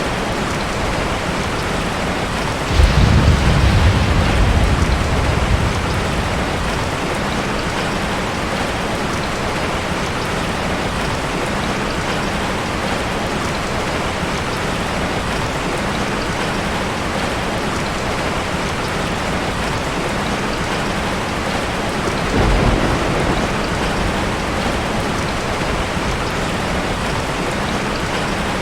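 Steady rain, falling as an even hiss. Thunder rolls in twice: a sudden loud low rumble about three seconds in that lasts a few seconds, and a softer rumble later on.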